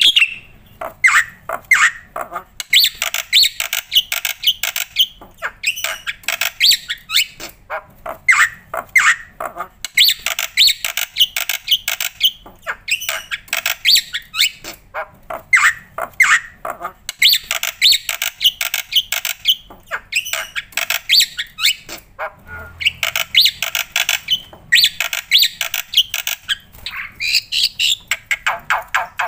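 Black-winged starling (jalak putih) singing vigorously in harsh, rapid runs of squawking and chattering notes, phrases of a few seconds with short pauses between.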